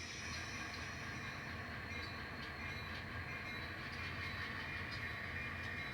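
N scale model train, a set of CSX switcher locomotives, running slowly as it pulls cars away along the track: a steady low hum with faint ticks.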